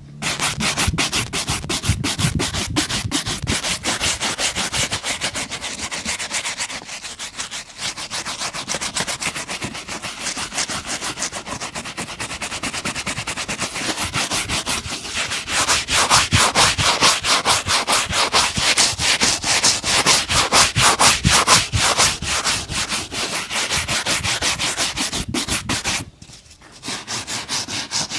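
Fast, even rubbing strokes worked back and forth over a shoe, broken by a short pause about two seconds before the end.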